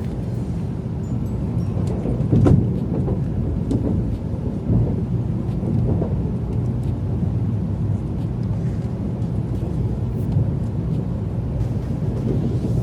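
Sanyo Shinkansen train running, heard as a steady low rumble inside the carriage, with a sharper knock about two and a half seconds in.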